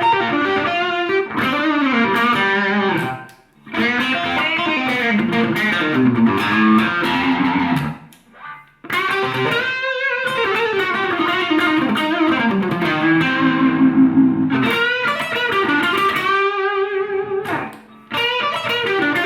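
Electric guitar played through an Abeid Custom Mid Gain drive pedal with its gain turned down and clipping switch off, heard from the amp in the room: lightly overdriven melodic phrases with three short breaks.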